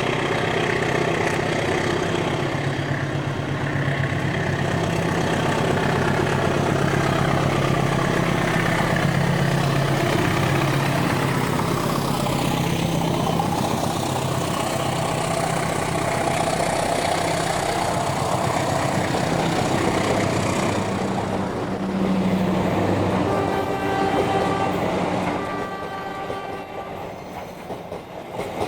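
General Electric CC 203 diesel-electric locomotive rumbling as it pulls a train away, its engine running steadily with the cars rolling along the rails. Near the end a steady high tone sounds while the rumble fades.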